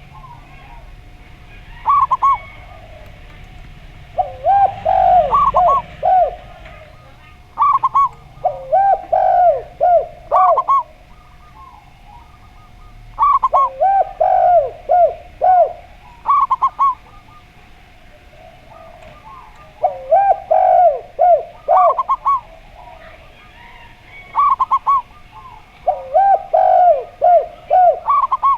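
Zebra dove and spotted dove cooing in turn: short higher coos alternate with lower phrases of several quick coos, the exchange repeating every five or six seconds.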